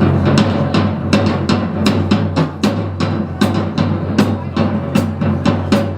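A band playing the instrumental intro of a song: a drum kit keeps a steady beat of about three strokes a second over low bass notes, with no singing.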